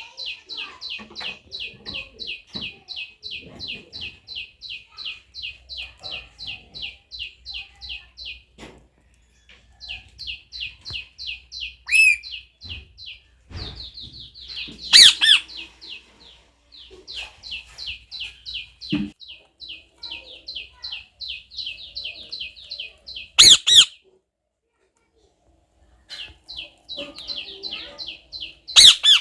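Pet parrot chirping in long rapid runs of high, evenly repeated notes, about four or five a second, with pauses between runs. Several loud, sharp calls cut in.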